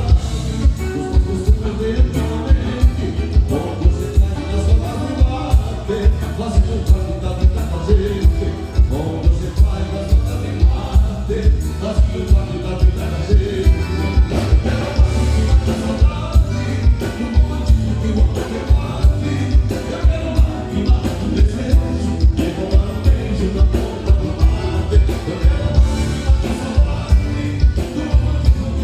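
Live gaúcho band playing a milonga over loud speakers, a steady bass beat at about two a second under the melody, with singing.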